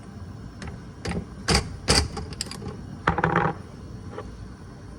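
Clicks and knocks from a spice container and cookware being handled as seasoning goes in: a few sharp single knocks, then a short rattling run about three seconds in.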